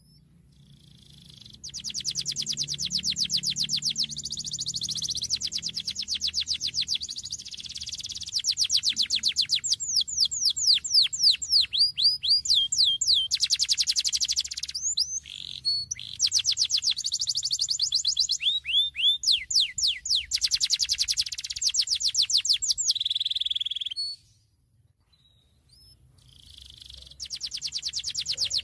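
Domestic canary singing: long rolls of very fast repeated trill notes mixed with downward-sweeping whistles, one phrase straight after another. Near the end the song stops for about two seconds, then starts again. A low hum runs underneath.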